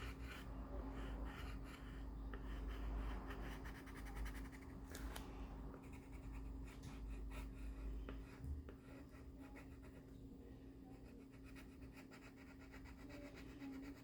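A drawing tool scratching on paper in quick back-and-forth strokes, colouring in a filled area. The strokes are busiest for the first eight seconds or so, then lighter.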